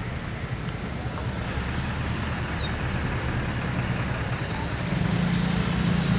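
A motor vehicle's engine running amid roadside traffic noise; the engine hum grows louder about five seconds in.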